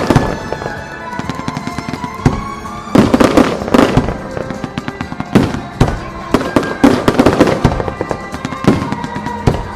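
Aerial fireworks shells bursting in quick succession, many sharp bangs in clusters, with music playing underneath.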